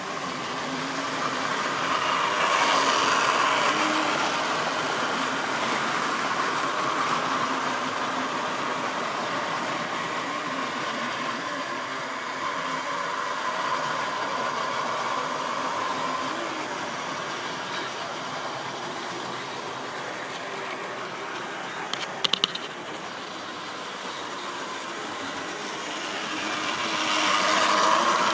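Model train running on its track, a steady mechanical whirr and rattle of the motor and wheels on the rails. It grows louder as it comes close about three seconds in and again near the end, with a few sharp clicks about twenty-two seconds in.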